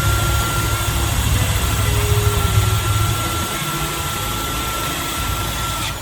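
A power tool running steadily, giving a loud even rush with a constant high whine; it starts and stops abruptly.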